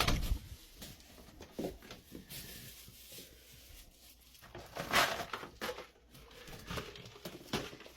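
Handling noises: scattered knocks, taps and rustles as a plastic gold pan is fetched and set down, with a louder clatter about five seconds in.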